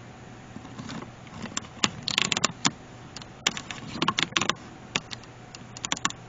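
Handling noise: a scattered series of sharp clicks, taps and short scrapes as paper and cardboard craft pieces are moved and adjusted by hand, with a low steady hum underneath.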